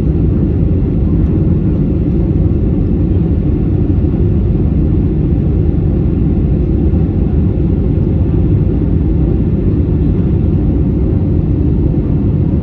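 Jet airliner cabin noise: a steady, loud, low rumble of engines and airflow that cuts off suddenly at the end.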